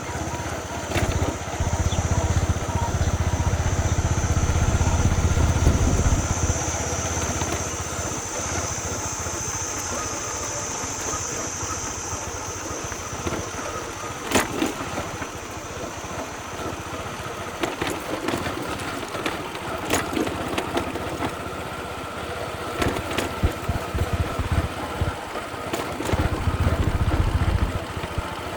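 Small motorcycle engine running during a ride, its low rumble louder in the first several seconds and again near the end. Several sharp knocks come through, and a steady high tone is heard over roughly the first dozen seconds.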